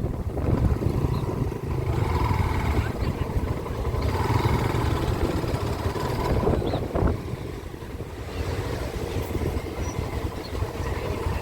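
Small-displacement motorcycle engine running steadily while the bike is ridden, briefly quieter a little past the middle.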